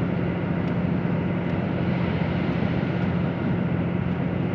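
Inside a KiHa 85 series diesel express railcar running at speed: a steady drone of its diesel engine with a low hum, over the rumble of wheels on the rails.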